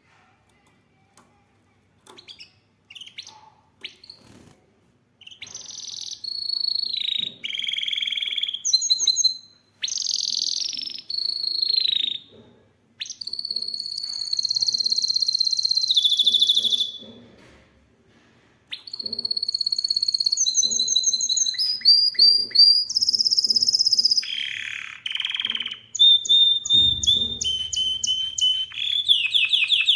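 Domestic canary singing: after a few quiet seconds, phrases of rapid repeated trills and long held whistles, broken by short pauses, then running on without a break for the last third.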